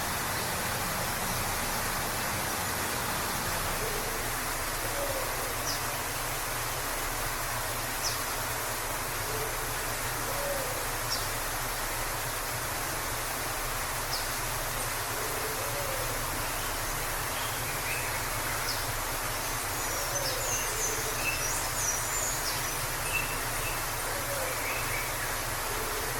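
Waterfall rushing steadily, with faint bird calls over it: short low calls repeating every few seconds and brief high chirps, busiest a little before the end.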